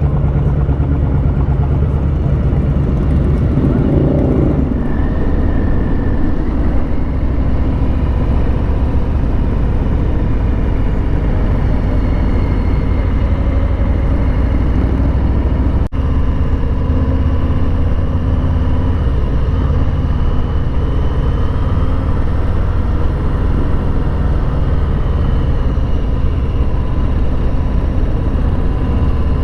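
Harley-Davidson Street Bob's Milwaukee-Eight V-twin running steadily under way on the road, with a very short dropout a little past halfway.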